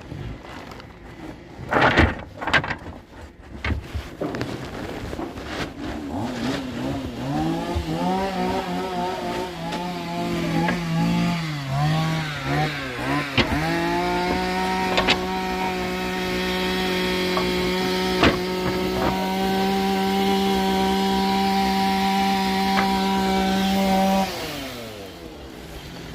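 Wood knocking as it is handled, then a power saw starting up about a quarter of the way in. Its pitch wavers for a few seconds, then it runs at a steady pitch until it is switched off near the end, the pitch falling as it spins down.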